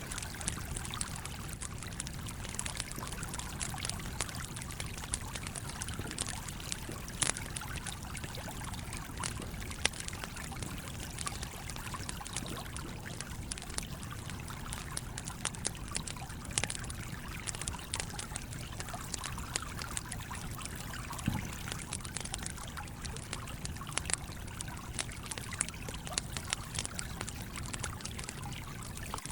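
Campfire crackling with scattered sharp pops over the steady rush and trickle of a flowing stream.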